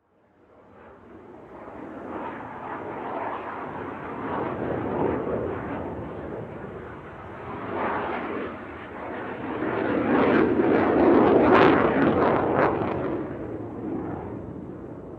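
Rolling thunder: a long rumble with crackles that swells, peaks about three-quarters of the way through, then fades away.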